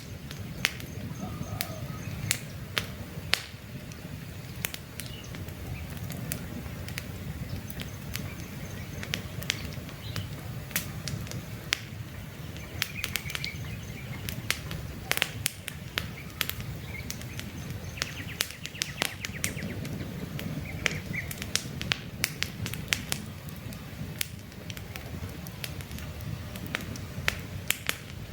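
Wood campfire crackling, with frequent irregular sharp pops and snaps over a low steady rumble of burning. Faint bird chirps come and go in the background.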